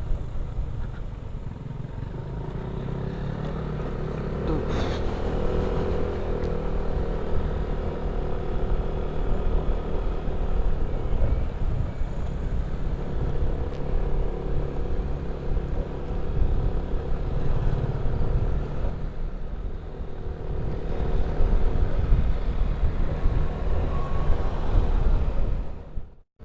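Motorcycle engine running steadily while riding, over a heavy low rumble. The sound drops out briefly near the end.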